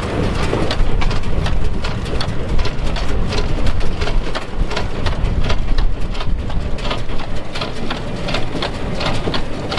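Vintage farm machinery running: a steady low engine rumble with many irregular rattling clicks.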